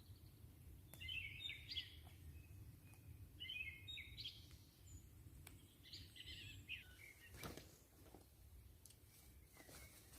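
Faint songbird singing three short chirping phrases, a couple of seconds apart, over a low steady rumble of outdoor background noise.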